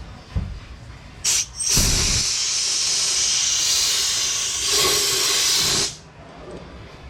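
Compressed-air blow gun blowing off a freshly sanded crankshaft journal: a short blast, then a steady hiss of about four seconds that cuts off suddenly.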